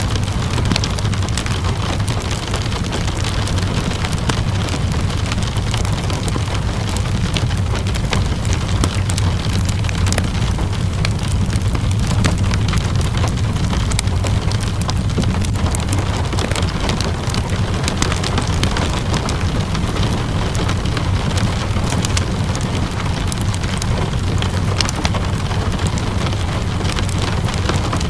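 Steady rainfall with a low rumble underneath, mixed with the scattered sharp crackles and pops of a wood fire burning in a fireplace.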